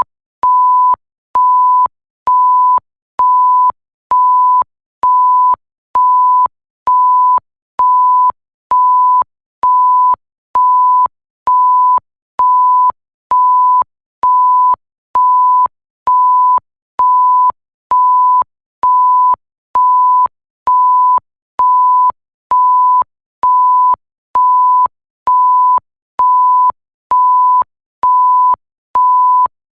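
Electronic bleep sound effect: a single pure steady tone, beeping on and off at an even rate, about three beeps every two seconds, each about half a second long with short gaps.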